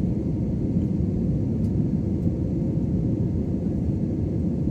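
Steady low rumble of an airliner's engines and rushing air heard inside the passenger cabin on the landing approach, with a faint steady hum on top.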